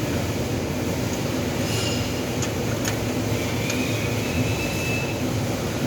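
Steady mechanical hum and rumble with a few light metallic clicks, and a thin squeal-like tone for about a second and a half near the middle.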